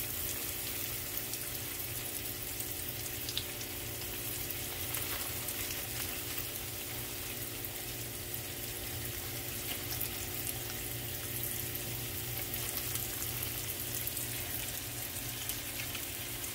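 Breaded zucchini sticks frying in hot olive oil in a small frying pan: a steady sizzle with scattered small crackles and pops.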